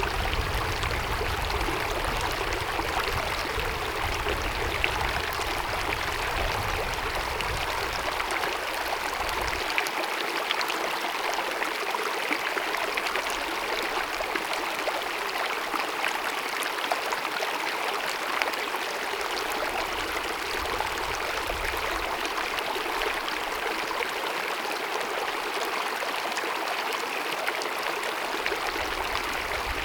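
Small glacier-fed mountain meadow stream babbling and cascading in a steady rush of water, with a low rumble beneath it for roughly the first ten seconds.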